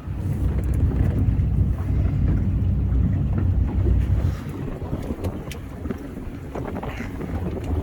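Wind rumbling on the microphone aboard a moving boat, with the boat's running noise underneath. The low rumble is strong at first and eases a little over four seconds in.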